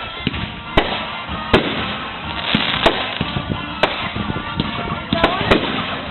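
Fireworks display: aerial shells going off with sharp bangs about once a second, two in quick succession near the end, over continuous crackling.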